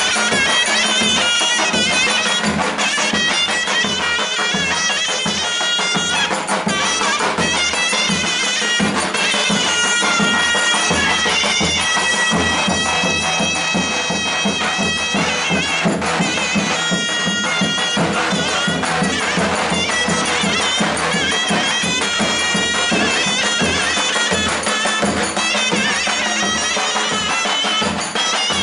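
Traditional folk wedding music played live: a loud, reedy wind instrument carries a continuous melody over a steady rhythmic beat.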